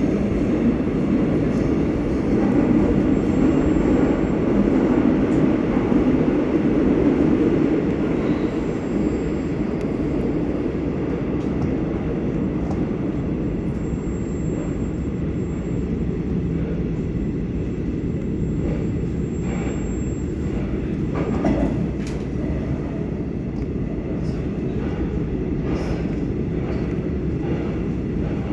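Korail Class 351000 electric multiple unit running on the line: a steady rumble of wheels on rail, a little louder in the first several seconds, with a few faint clicks later on.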